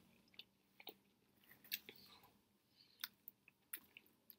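A person chewing a toasted chicken teriyaki sub with the mouth close to the microphone: faint, irregular small clicks and crunches of bread and filling.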